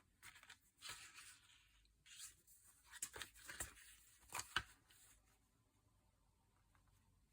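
Faint paper rustling and handling with a few sharp taps, as a needle and thread are worked through the pages of a pamphlet-stitched notebook. The rustling stops about five seconds in.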